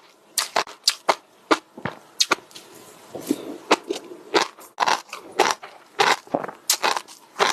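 Crunchy food being bitten and chewed close to the microphone: crisp crunches several times a second, with a softer, duller stretch of chewing about three seconds in.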